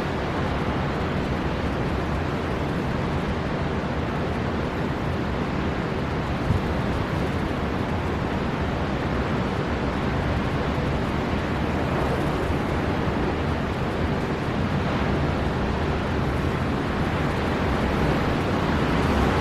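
Storm wind blowing hard over heavy sea surf: a steady, dense rush of noise, heaviest in the low end, swelling slightly louder near the end.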